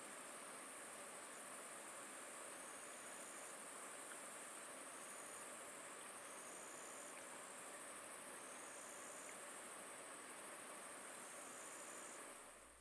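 Faint chorus of insects: one steady high trill, with a second, slightly lower trill coming and going every couple of seconds.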